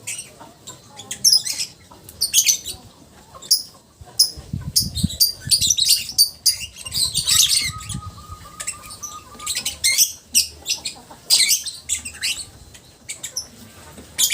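Lovebird chattering in fast runs of sharp, high-pitched chirps and squeaks, the long 'ngekek' chatter song. The runs are densest from about four to eight seconds in.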